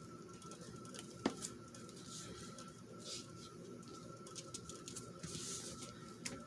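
Paper and small craft pieces being handled: soft rustling with scattered light clicks and taps, one sharper click about a second in.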